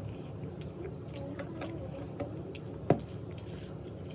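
Close-miked chewing and wet mouth sounds of a person eating, with small clicks and one sharper click about three seconds in, over a steady low hum.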